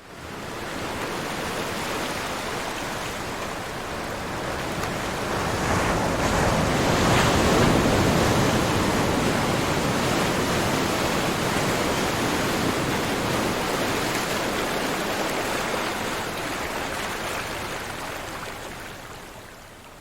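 Ocean surf: a continuous wash of breaking waves that swells to its loudest about a third of the way in, then eases and fades out near the end.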